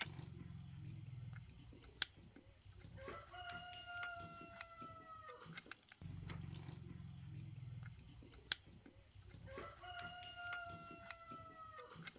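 A rooster crowing twice, each crow a long call of about two and a half seconds that falls slightly in pitch. Between the crows come a single sharp knock and a low hum.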